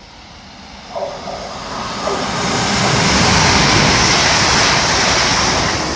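A Class 350 Desiro electric multiple unit passing through the station, its rumble and rush of air building from about a second in to a loud peak in the middle, then easing slightly near the end.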